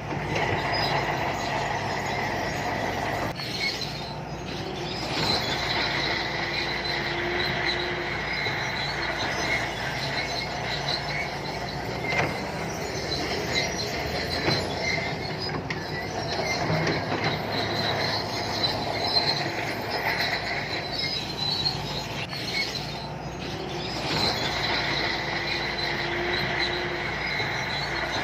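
Crawler bulldozer's diesel engine running steadily while its steel tracks squeal as it moves, with two brief dips in the sound.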